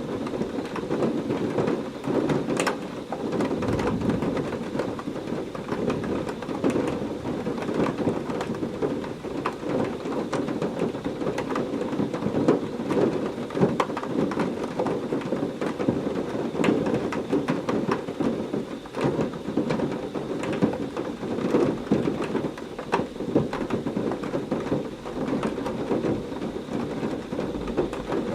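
Heavy rain pouring steadily, a dense patter with many sharp individual drop hits, under a low rumble of thunder that swells about four seconds in.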